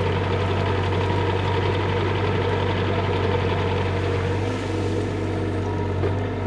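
Bobcat E35 mini excavator's diesel engine running steadily, with a slight change in load about four and a half seconds in.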